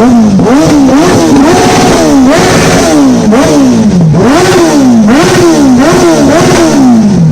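A vehicle engine being revved in quick throttle blips over and over, a little under twice a second, each rev rising sharply and then falling away. It is very loud.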